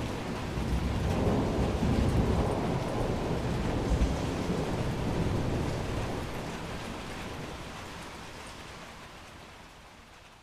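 A long roll of thunder over steady rain. The rumble dies away over the last few seconds, leaving mostly rain.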